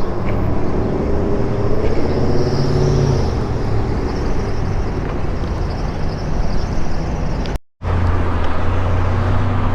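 Car traffic and road noise heard from a moving e-bike, with a steady low rumble of wind on the microphone. The sound cuts out completely for a moment about three-quarters of the way through.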